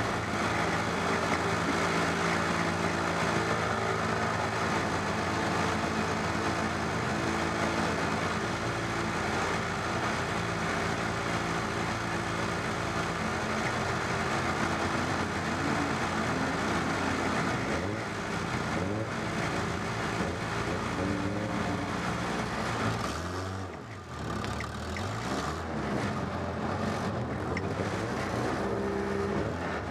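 Stock car engine idling steadily, heard from inside the stripped cockpit; from about two-thirds of the way in, the revs rise and fall in blips, with a short drop near the end.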